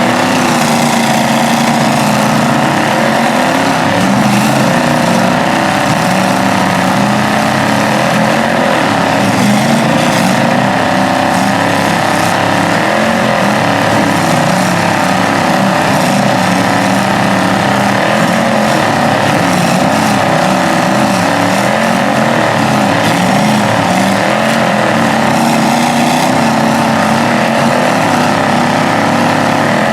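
Pickup truck engines held at high revs under load in a truck tug of war pull, their pitch wavering up and down without letting off.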